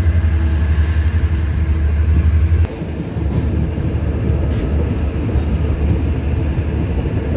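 Steady low rumble and running noise of a moving local passenger train, heard from on board. About two and a half seconds in, the sound drops suddenly in level and changes, then the rumble carries on.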